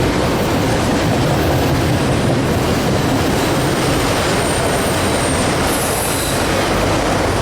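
Freight train rolling past at trackside, its cars making a steady loud rumble of wheels on rail, with a faint high wheel squeal partway through.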